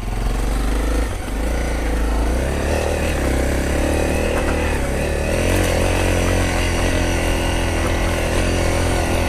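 Honda CRF250 dirt bike's single-cylinder four-stroke engine running while being ridden, its note shifting a little in the first few seconds and then holding steady.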